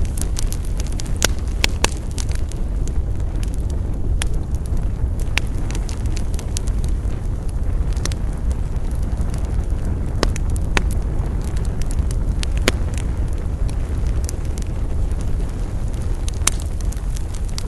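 Wood campfire burning: a steady low rush of flames under irregular sharp crackles and pops, with a few louder snaps scattered through.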